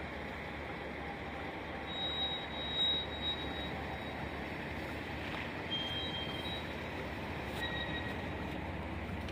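Freight train of covered hoppers and tank cars rolling past: a steady rumble of wheels on the rails, with a few brief high squeals.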